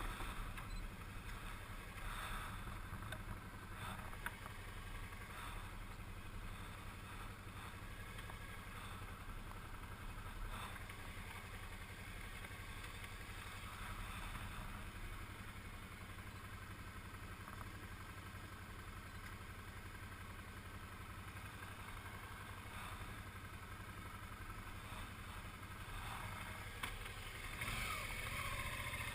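Suzuki V-Strom 650's V-twin engine running steadily with a low drone while the bike is ridden. It gets louder near the end, with a rising pitch.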